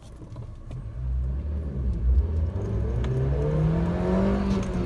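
1998 Suzuki Jimny Wide's 1.3-litre four-cylinder engine accelerating hard from a standstill in first gear, heard from inside the cab. The engine grows louder, and over the last two seconds its pitch climbs steadily as the revs rise toward about 5,500 rpm.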